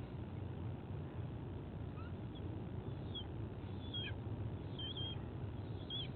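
A few short, high, thin bird chirps, some dipping or wavering in pitch, spread through the second half over a steady low background rumble on the nest-cam microphone.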